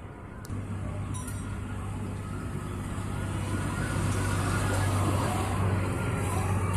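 A motor vehicle engine running nearby with a steady low hum that grows louder over several seconds, with two light clicks about half a second and a second in.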